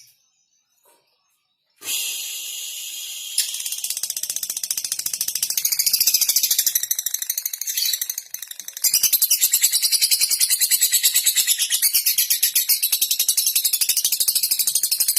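Lovebird's long, rapid, high-pitched chattering song (the 'ngekek'). It starts about two seconds in and becomes a steady fast run of chirps from about nine seconds.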